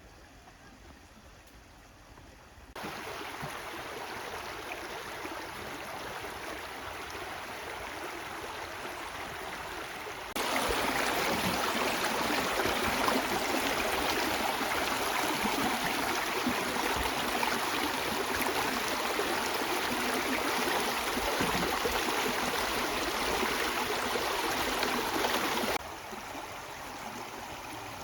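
Steady rushing hiss with no clear pitch, starting faint, stepping up in loudness twice, then dropping back near the end.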